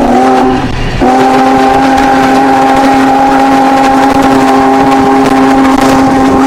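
Locomotive whistle sounding a chord of several steady tones: a blast that breaks off just before a second in, then one long held blast.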